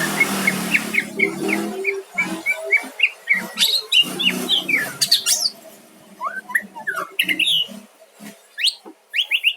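White-rumped shama (murai batu) singing: a quick run of short chirps, then a string of varied whistled notes sliding up and down in pitch.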